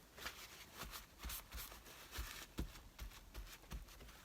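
Paper rustling and crinkling as collage pieces are handled, in short irregular bursts, with a few soft thumps on the work surface.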